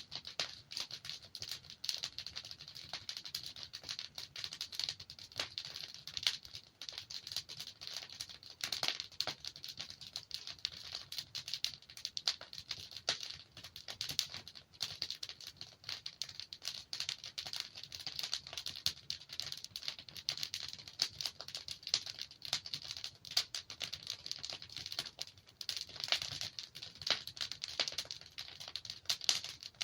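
Burning logs in a fireplace crackling steadily: a dense run of small snaps and pops, with a few louder pops now and then.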